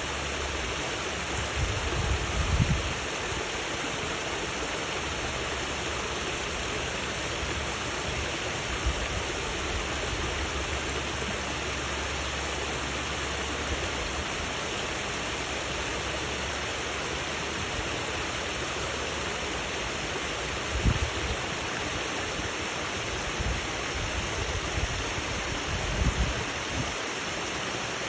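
Water of a waterfall falling steadily, an even rushing hiss, with a few brief low bumps at moments.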